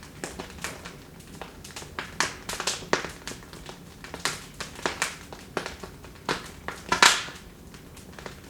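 Wood fire in a fireplace crackling, with irregular sharp pops and snaps and one louder burst of pops about seven seconds in.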